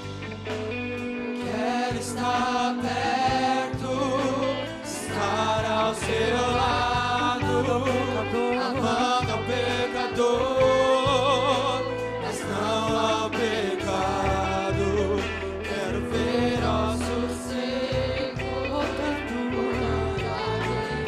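Vocal group singing a gospel praise song in unison, with vibrato, over a live band with bass and drums.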